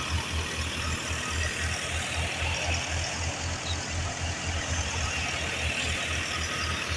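Tractor diesel engine running steadily with an even low throb, about four to five beats a second, under a constant mechanical hiss.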